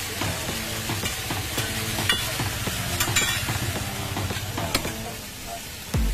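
Food sizzling as it fries in a pan and is stirred, with a few sharp clicks of the utensil against the pan about two and three seconds in.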